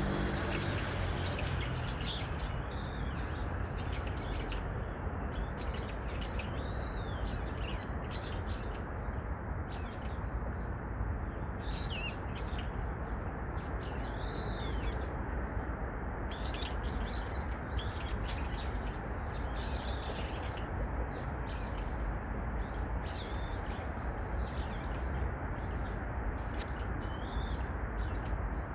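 Birds chirping: many short, arching calls one after another, over a steady rushing background noise.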